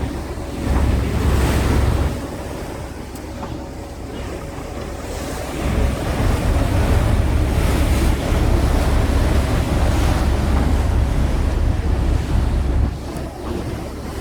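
Wind buffeting the microphone in gusts over the rush of choppy harbour water along a moving ferry. The gusts are strongest around the first two seconds and again from about six seconds until near the end.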